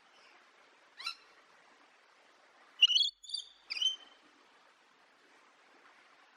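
A parrot calling: one brief call about a second in, then three louder, high calls in quick succession around the middle.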